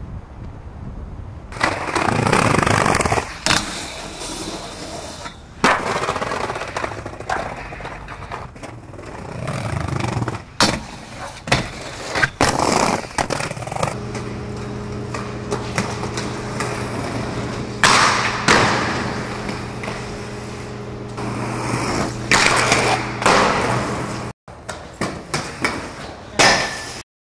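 Inline skate wheels rolling on wet pavement in loud rushing surges, with several sharp clacks and thuds of landings and impacts. A steady low hum runs under it for about ten seconds in the middle, and the sound cuts off abruptly near the end.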